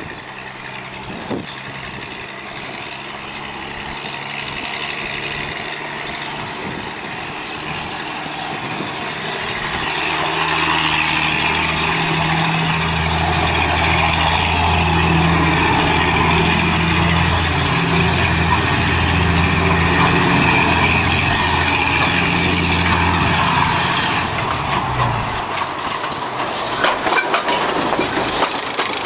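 Narrow-gauge industrial train drawing nearer, its locomotive engine running with a steady hum that grows louder, then the wagons rattling and clattering over the rail joints near the end.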